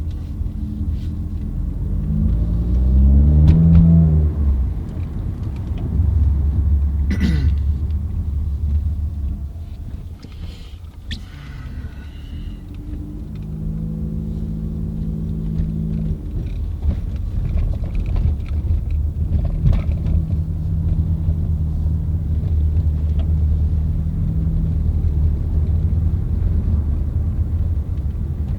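Car engine running under way, with the engine note rising as it accelerates a few seconds in, then easing off and settling into a steady drone at cruising speed.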